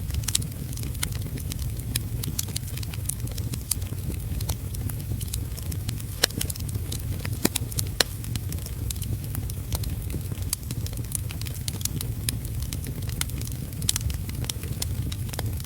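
Wood fire crackling, with frequent sharp pops at irregular intervals, over a steady low rumble and the even hiss of heavy rain.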